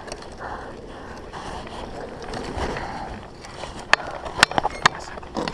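A mountain bike being handled: three or four sharp metallic clicks close together in the second half, over a steady rustling haze.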